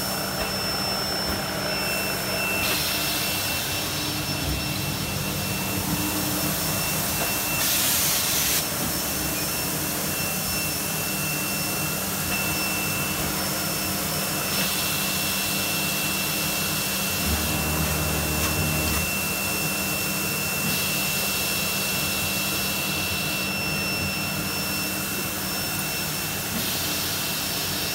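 Pneumatic seeding machine running: a steady rush of air from its vacuum blower with a thin high whine over it. About eight seconds in there is a short louder burst of hiss, and a low hum comes in for a couple of seconds after the middle.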